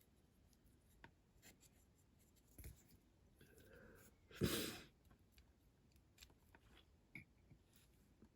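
Faint scraping and light taps of small hand tools working on a die-cast model, with one louder brief rubbing scrape about four and a half seconds in.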